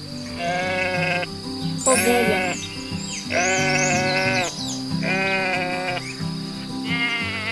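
Sheep bleating about five times, each call lasting roughly a second, over light background music.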